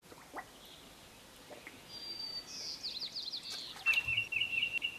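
Songbirds singing: a thin high whistle, then a fast descending trill and a run of quick repeated notes, with a single knock about four seconds in.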